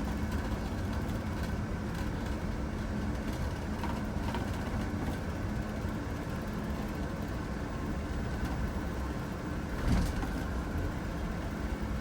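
A vehicle's engine and road noise as heard riding inside it, a steady low rumble with a steady hum, and one short thump about ten seconds in.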